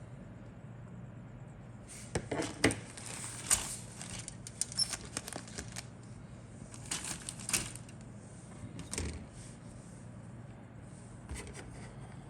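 Plastic model kit parts being handled: clicks, light clatter and rustling in several short bursts, over a steady low hum.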